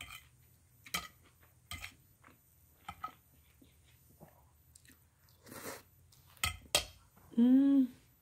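Close-up eating sounds: wet chewing and mouth noises of soft egg noodles in a creamy sauce, with a few sharp clicks of a metal fork. A short airy noise comes just past the middle, and near the end a brief hummed "mmm" that rises and falls, the loudest sound.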